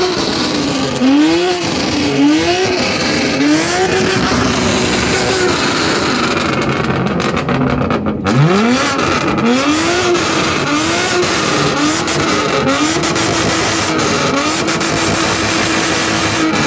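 BMW M2's turbocharged straight-six revved hard again and again in quick blips, about one a second, its note rising and dropping each time. Near the end the revs are held steady and high.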